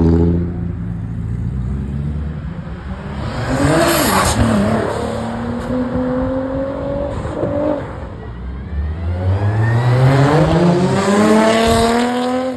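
Car engines driving past one after another. One engine note drops away at the start, another revs about four seconds in and then holds a steady note, and near the end a car accelerates hard with its pitch rising.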